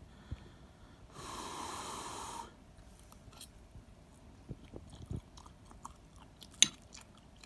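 A person blowing on a forkful of hot pasta bake to cool it, one breathy blow lasting about a second and a half, then quiet chewing with small clicks and a single sharp click near the end.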